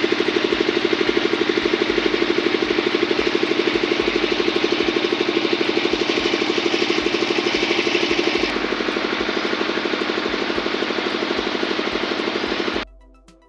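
Engine-driven construction machinery running with a fast, steady pulsing, a little quieter for its last few seconds, then cutting off abruptly near the end.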